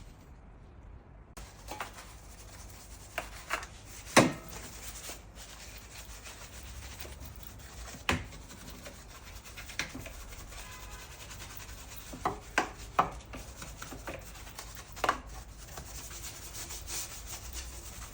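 Rubbing and scrubbing on a Honda B-series engine bay while it is cleaned, a steady rustle broken by scattered sharp knocks and taps, the loudest about four seconds in.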